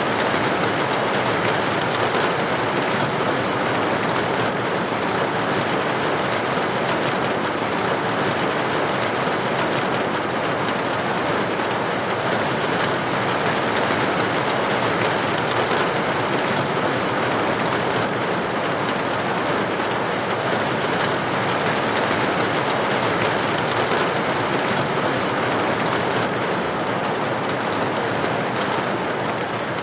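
Rain falling steadily on window glass: an even, dense hiss with faint scattered drop ticks.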